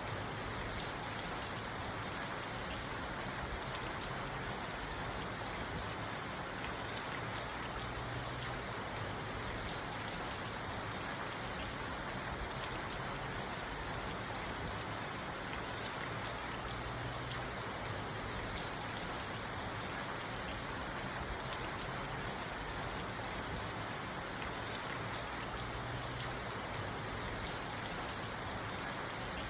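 Steady rain falling on a parked car, heard from inside the cabin as an even, unbroken patter on the roof and glass.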